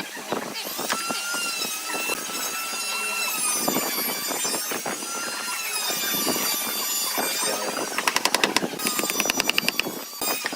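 Electric power tool motor whining at a high pitch that wavers as it works the pallet wood, with scattered knocks. Near the end comes a fast rattle of clicks.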